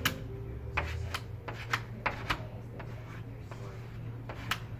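Scattered sharp clicks and taps, about seven, at irregular intervals over a low steady hum.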